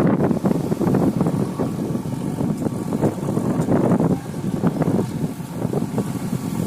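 Diesel engine of a JCB backhoe loader running under working load, a rough, continuous sound whose level rises and falls.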